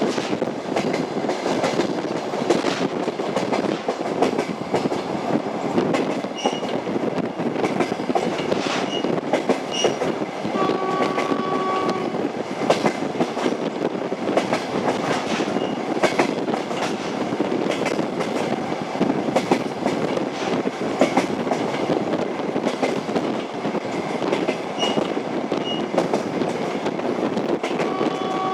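Passenger train's wheels running over jointed track, with a steady rumble and the clickety-clack of wheels striking the rail joints. A short, steady horn tone sounds about ten seconds in, and again at the very end.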